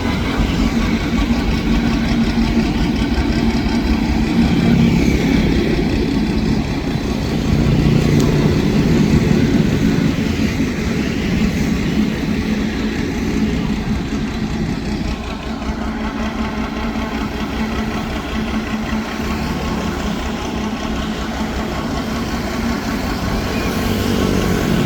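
Engine of a homemade mud suction boat running steadily, a little louder for a few seconds near the start and easing slightly past the middle.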